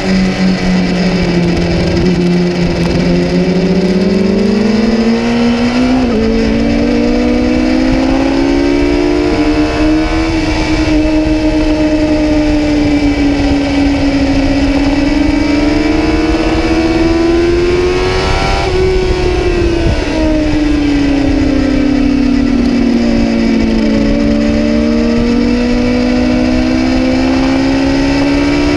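Kawasaki ZX-10R inline-four engine heard on board at track speed. Its pitch rises and falls through acceleration, braking and gear changes, with a drop near the end followed by a climb again.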